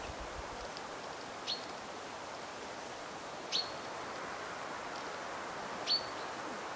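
A small bird calling: a short high chirp, three times about two seconds apart, over a steady background hiss of woodland air.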